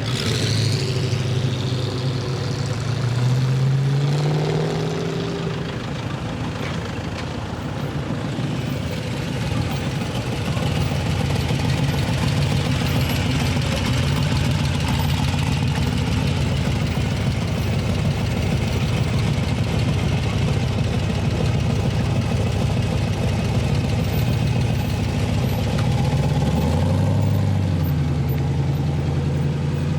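Hot rod and muscle car engines running as cars drive by, with a deep exhaust rumble; one engine's pitch rises about four seconds in as it pulls away, and another climbs near the end.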